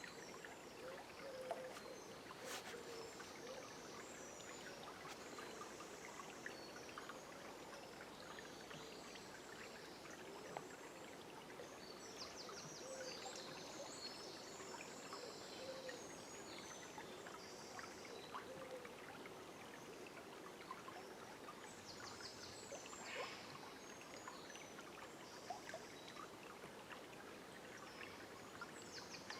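Quiet, steady flow of a forest river, with small birds chirping high over the water throughout.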